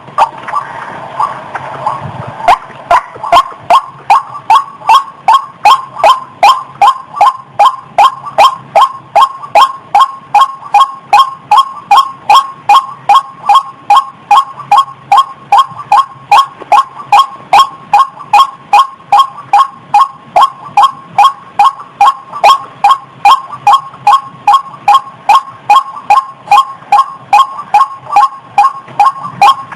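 Female waterhen (ruak-ruak) calling in breeding condition: a steady run of short, loud, nasal notes repeated evenly at about two to three a second. This is the call used as a lure to trap the species. A brief hiss sits under the first two seconds.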